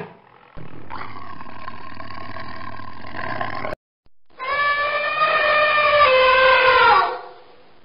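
Elephant trumpeting: one loud, clear-pitched blare of about two and a half seconds that sags in pitch as it ends. Before it comes a steadier, hoarser call of about three seconds that cuts off suddenly.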